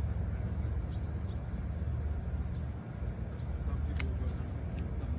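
A steady high-pitched chorus of summer insects trilling continuously over a low outdoor rumble, with a faint click about four seconds in.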